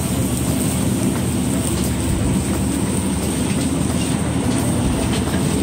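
Steady rumble and hiss of a food truck kitchen's running equipment and grill, holding even throughout.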